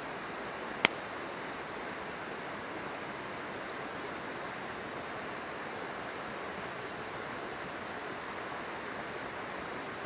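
Steady rush of river water, with one sharp pop from the burning firewood about a second in.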